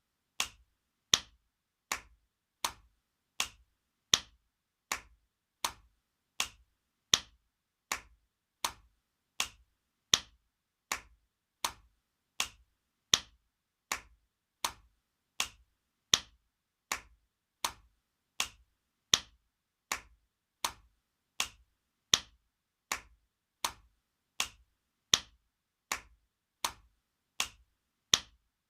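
Spanking sound effect: a hand slapping skin in a steady repeating loop, about four sharp slaps every three seconds, with every fourth slap louder.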